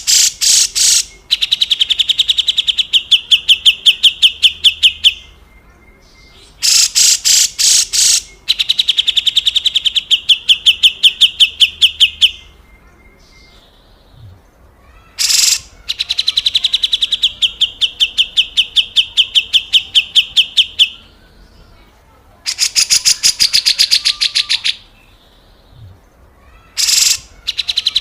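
Grey-cheeked bulbul (cucak jenggot) giving its harsh, rasping 'besetan kasar' call: loud scratchy opening notes running into a fast rattle of about eight notes a second. The bursts come one after another, about five of them, each lasting a few seconds.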